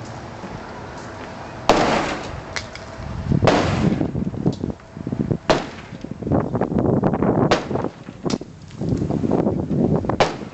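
Covered porch roof being demolished: a string of sharp cracks and bangs of breaking wood and framing, starting about two seconds in, with clattering debris between the bangs.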